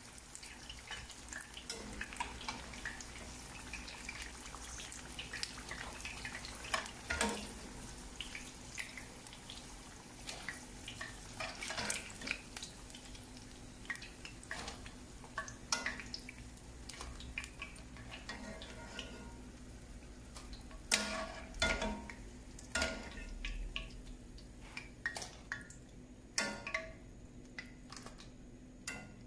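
Tempura-battered mushrooms crackling sporadically in hot oil: scattered, irregular light pops and clicks, with an occasional clink of kitchenware. A cluster of louder clicks comes about two-thirds of the way through.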